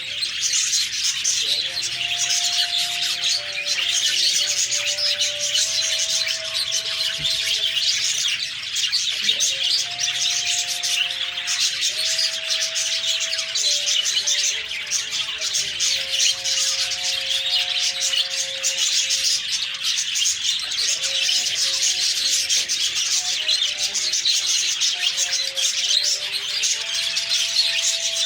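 A flock of budgerigars chattering and chirping without a break, a dense twittering warble.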